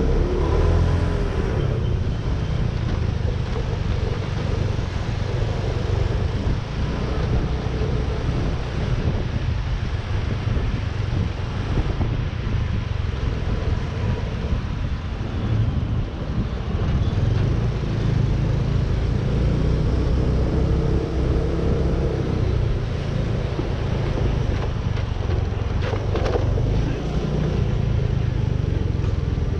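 Motorcycle running through city traffic: a steady low engine rumble mixed with the noise of surrounding traffic.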